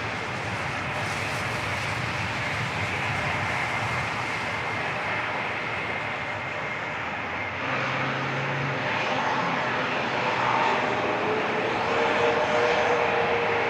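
Emirates Airbus A380-861's four Engine Alliance GP7200 turbofans running at high power on departure, a steady jet roar that grows a little louder in the second half, with a tone climbing slightly in pitch near the end.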